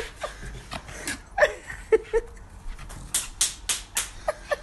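A small dog giving a quick run of short, excited yips, about a dozen, each dropping in pitch and coming closer together in the second half.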